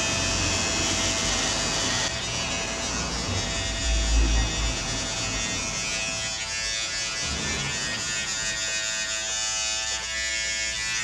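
Electric hair clippers buzzing steadily while cutting hair, with a brief low bump about four seconds in.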